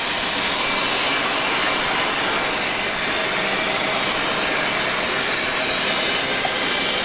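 Steady roar of a Boeing 737-200's Pratt & Whitney JT8D jet engines and air noise heard inside the aircraft, with a thin high whine running through it.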